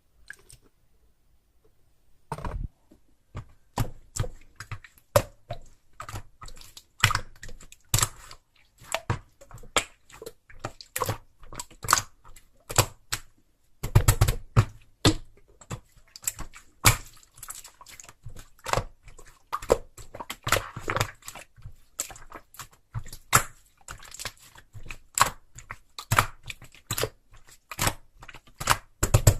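Pet parrot chewing and tearing at something with its beak: a long run of irregular crunches and sharp clicks, starting about two seconds in.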